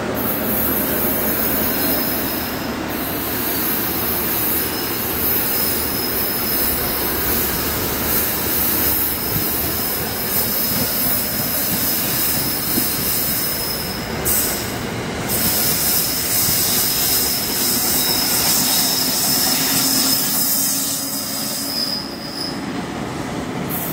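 New Jersey Transit electric commuter train passing close by: the steady rush and rumble of the coaches' wheels on the rails, with a high, steady whine over it that fades out near the end as the locomotive goes by.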